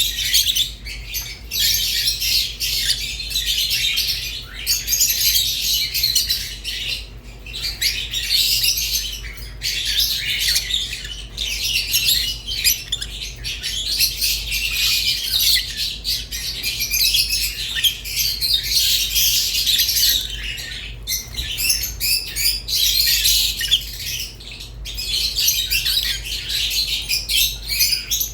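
Small pet lovebirds chirping and chattering nonstop: a dense, high-pitched flock of twitters and squawks with only brief pauses, over a steady low hum.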